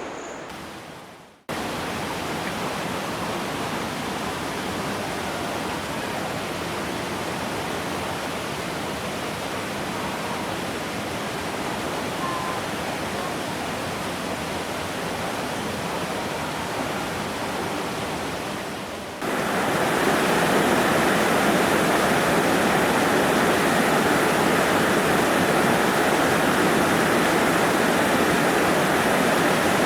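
Waterfall: a steady rush of falling water. It cuts in after a brief dropout near the start, then jumps suddenly louder about two-thirds of the way through.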